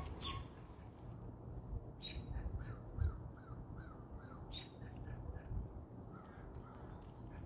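Birds calling: a run of short, repeated calls, about two to three a second, with two sharper, higher calls among them, over a low background rumble.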